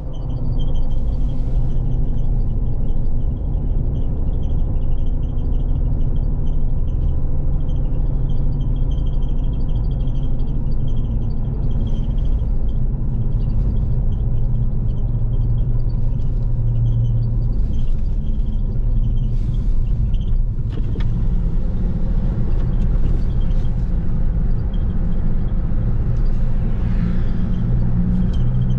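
Jeep Rubicon driving: a steady low rumble of engine and road noise.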